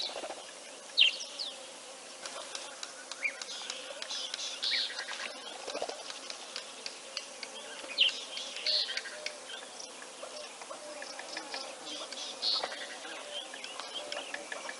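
Wild birds calling: a scatter of short, sharp whistled notes and chirps, the loudest about a second in and again about eight seconds in.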